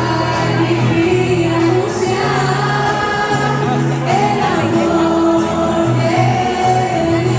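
Music with voices singing a Spanish religious song in long held notes over a steady low accompaniment.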